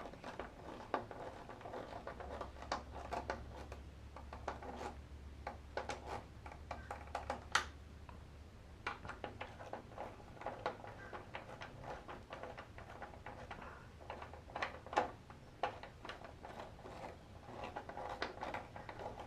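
Scattered small clicks and taps of metal and plastic as small nuts are hand-tightened onto emblem studs with a socket on a screwdriver handle. A faint low hum runs under the first half and stops about eight seconds in.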